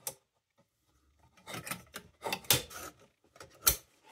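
Handling of a tin hot blast lantern and its glass globe: a short click, then scraping and rubbing of metal and glass, with a sharp click near the end, the loudest sound.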